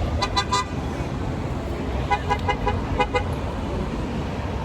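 Car horn tooting in short repeated beeps: a quick run of three, then about six more starting two seconds in, over steady traffic rumble.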